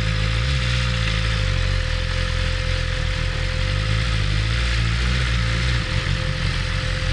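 BMW S1000RR's inline-four engine idling with a steady low note, turning rougher about six seconds in.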